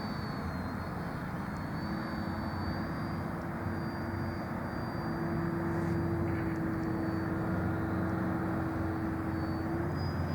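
Radio-controlled model airplane in flight: its motor and propeller give a steady drone with a thin high whine above it. It gets a little louder about halfway through.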